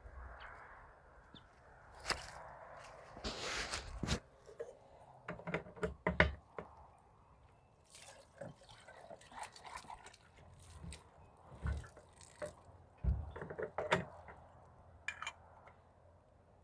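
Water splashing and dripping during washing by hand with a wet cloth, with irregular knocks and clatters.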